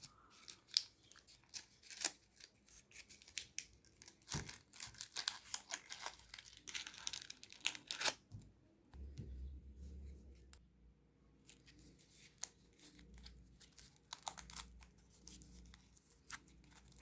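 Gold foil wrapper of a Ferrero Rocher chocolate being peeled open and crinkled by hand: a long run of sharp little crackles and tears, with a pause of a few seconds about halfway through.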